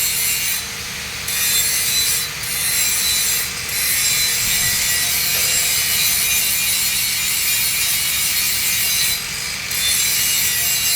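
Arc welding on a 3-inch schedule 80 steel pipe: a steady, loud hiss from the arc, dropping briefly about a second in, near two and three and a half seconds, and again near nine seconds.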